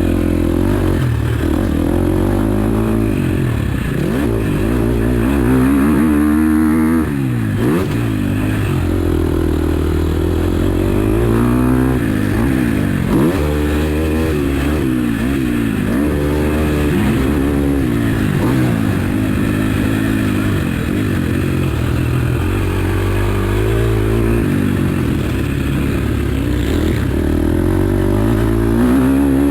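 2021 KTM 250 SX-F's four-stroke single-cylinder motocross engine revving hard. Its pitch climbs and drops again and again as the rider accelerates, shifts and rolls off the throttle.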